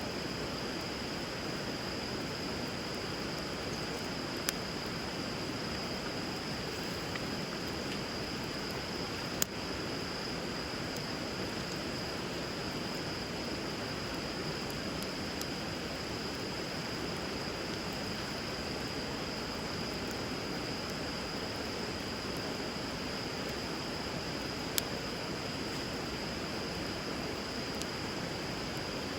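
Bonfire burning on a river, with the steady rush of flowing water, a steady high-pitched note over it, and three sharp pops from the burning wood, the loudest about nine seconds in.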